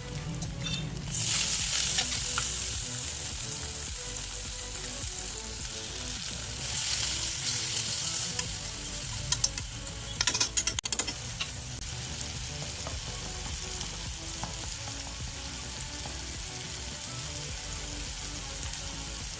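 Chopped vegetables sizzling in hot oil in a pan while being stirred, the sizzle swelling about a second in and again around seven seconds, with a short run of sharp clicks of a utensil against the pan around ten seconds.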